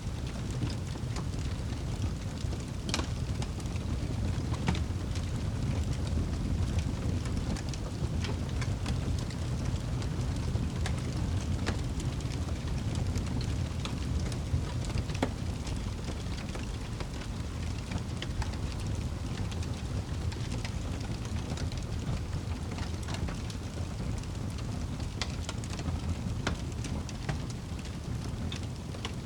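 Fire burning in a fireplace: a steady low rumble of flames with scattered sharp crackles and pops, several of them louder than the rest.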